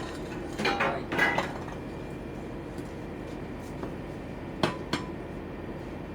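A few sharp metallic clinks and knocks, with a cluster about a second in and two quick ones near the end, over a steady low machinery hum.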